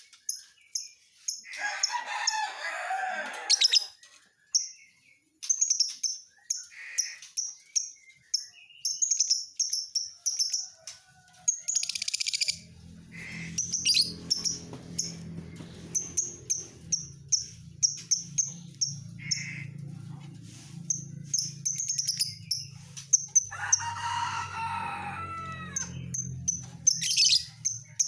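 Lovebird chirping: a fast, continuous run of short, high-pitched chirps, broken twice by a longer, lower call. A low steady hum comes in about halfway through.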